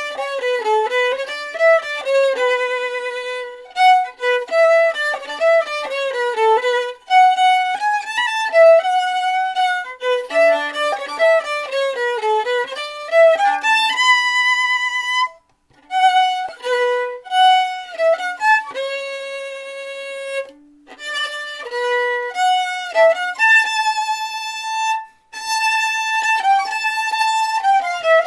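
Solo violin playing a single melodic line without accompaniment, with short breaks between phrases about fifteen and twenty-five seconds in.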